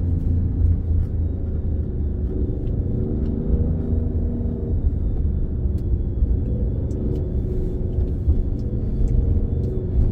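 Alfa Romeo Stelvio Quadrifoglio's twin-turbo 90-degree V6, breathing through a K&N aftermarket air filter, running steadily while driving, with a deep low rumble and a faint thin high whistle above it.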